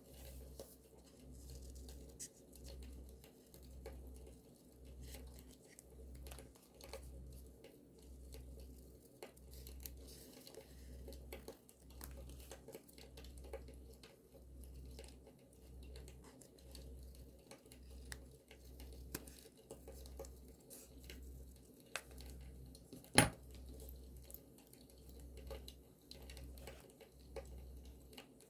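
Quiet handling of paper and journaling materials: soft crinkling, tearing and scattered light clicks, with one sharp click about three quarters of the way through. A low throb pulses underneath a little more than once a second.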